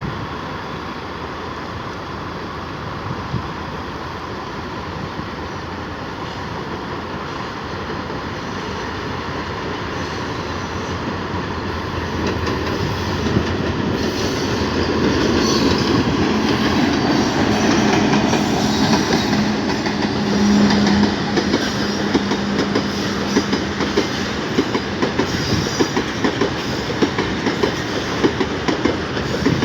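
Transap freight train crossing a bridge: a rumble that grows louder, a low steady hum for several seconds in the middle, then rapid clickety-clack of wheels over the rail joints near the end.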